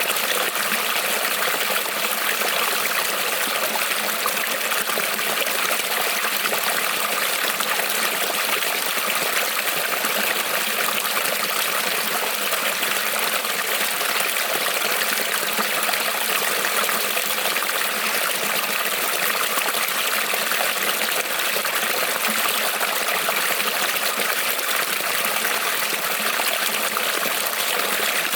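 Creek water rippling and trickling over stones, a steady, even splashing.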